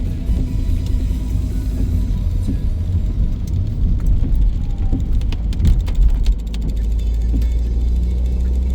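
Car driving along at road speed, heard from inside the cabin: a steady low rumble of engine and tyres, with scattered faint ticks.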